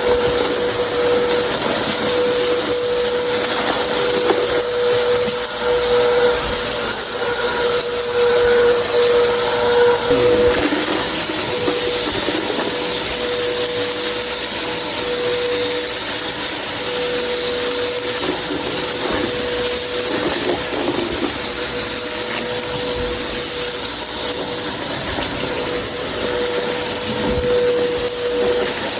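Vacuum cleaner running steadily, with a whine that comes and goes.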